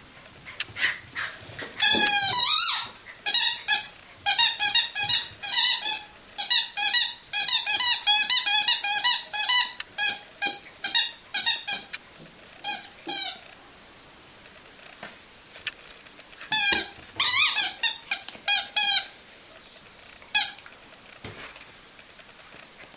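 A dog chewing a rubber squeaky toy: quick runs of high squeaks, several a second, in two long bouts with a pause between them and one last squeak near the end.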